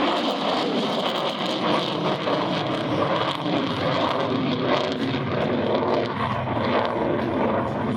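Steady, loud jet noise from a U.S. Air Force F-35A's single Pratt & Whitney F135 afterburning turbofan.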